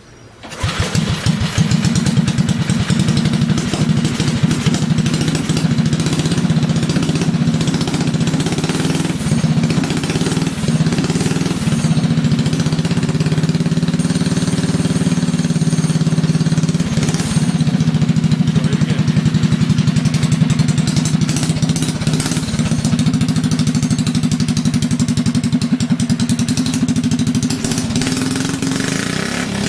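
Mini bike's small engine comes in suddenly about half a second in and keeps running steadily, with small rises and dips in speed.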